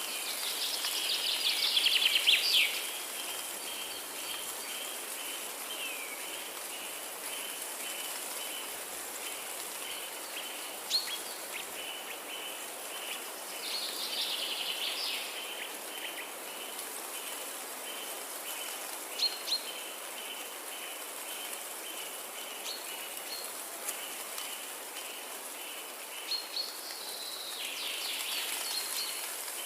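Forest ambience: songbirds sing three louder trilling phrases, about a second in, midway and near the end, with a few short single chirps between. Under them runs a row of evenly spaced high chirps over a steady hiss.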